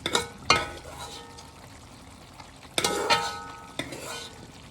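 A spoon knocking and scraping against a metal cooking pot while stirring a stew, the pot ringing after each knock. There are two knocks at the start, a longer clatter about three seconds in and one more knock shortly after, over a faint sizzle.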